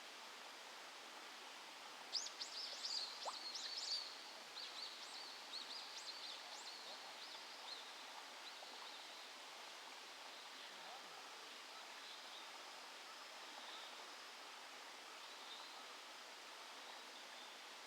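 A bird calling: a quick burst of high, rapid chirps about two seconds in, trailing off into softer scattered notes over the next few seconds, over a steady outdoor hiss.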